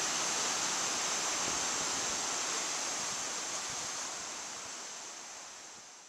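Ocean surf, a steady rush of breaking waves with a constant high hiss over it, fading out over the last few seconds.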